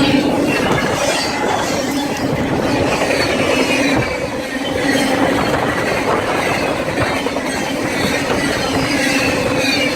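BNSF train rolling past, loud and steady: wheels running on the rails with a high-pitched wheel squeal over the rumble.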